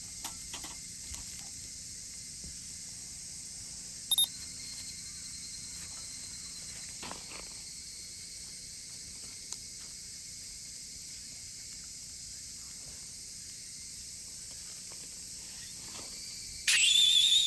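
Steady high-pitched chorus of insects, such as crickets. A brief high-pitched call sounds about four seconds in, and a louder high call of about a second comes near the end.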